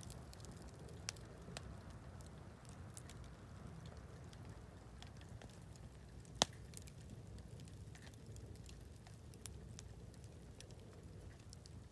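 Wood campfire crackling, with scattered small pops and one sharp, louder pop about six seconds in, over a faint low rumble.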